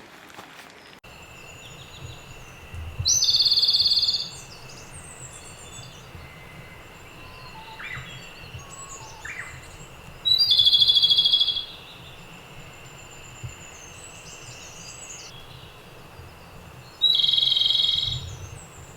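A songbird singing three loud, rapid trilled phrases of about a second each, spaced about seven seconds apart, with softer bird calls between them over a faint steady high-pitched tone.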